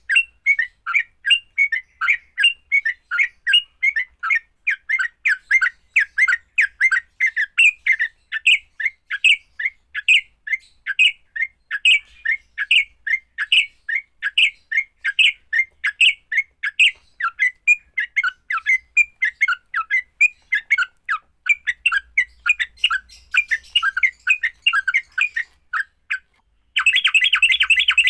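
Yellow-vented bulbul (trucukan) giving its aggressive fighting chatter: short, rapid, squawky notes at about three or four a second. Near the end, after a brief pause, it breaks into a dense, harsher continuous chatter.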